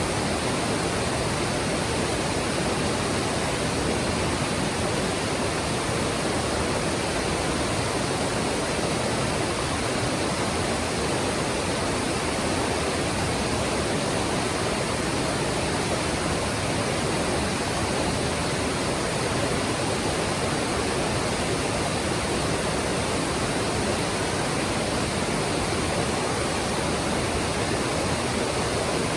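Mountain stream rushing steadily over rocks, an even, unbroken noise of running water.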